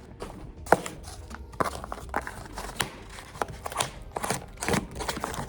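A parcel being opened by hand: an irregular run of sharp rustles, tears and knocks of packaging, the loudest a sharp crack just under a second in.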